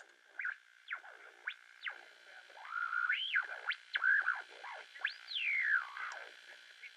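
Radio tuning sound: whistling tones glide up and down in pitch over a steady high whine, with a tinny, narrow-band quality. One sweep rises about three seconds in, and a larger one falls away just after five seconds.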